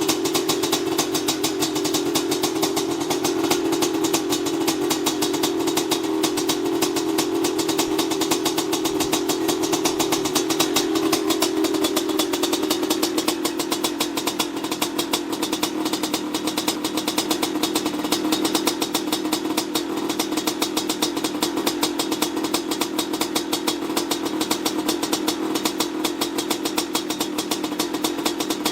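1993 Maico 500's single-cylinder two-stroke engine running steadily, with rapid, even firing pulses; its speed eases down a little about twelve seconds in.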